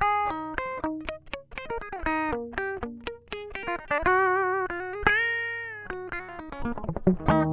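Electric guitar played with bare fingers, no pick: a fast run of single plucked notes, with one note bent up and held briefly about five seconds in.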